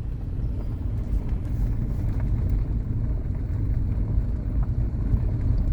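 Steady low rumble with a choppy, fluttering level and no clear bird calls.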